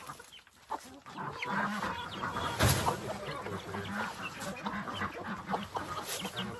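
A flock of chickens clucking, with many short calls overlapping. There is one brief louder rustle or thump a little before the middle.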